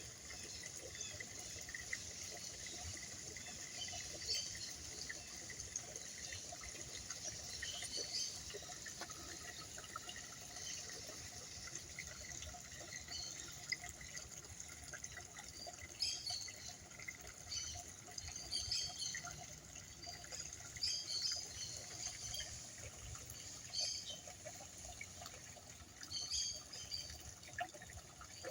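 Ornamental garden water feature running again: a steady trickle and splash of flowing water, with short high chirps now and then.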